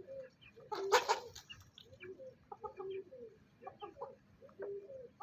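A hen clucking softly in a string of short, low calls, with one louder, harsher call about a second in.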